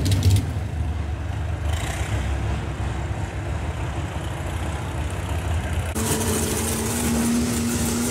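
Gas-engined 4x4 pulling truck's engine idling with a low rumble; about six seconds in the sound switches abruptly to a steady, higher-pitched drone with more hiss.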